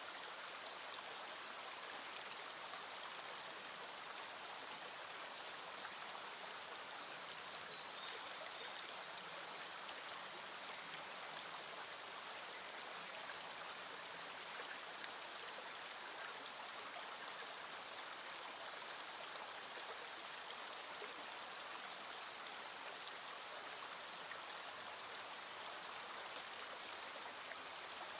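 Small stream flowing, a steady, even rush of water.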